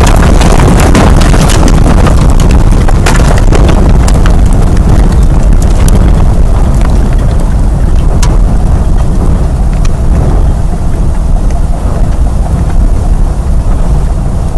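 Tornado-force wind blasting the microphone: a loud, continuous low rumble with scattered sharp clicks and knocks, likely from debris, that thin out after the first half. It eases slightly near the end.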